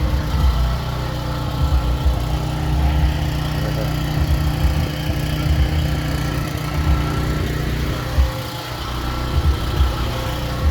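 Power generator's engine running at a steady speed, a constant drone that does not change.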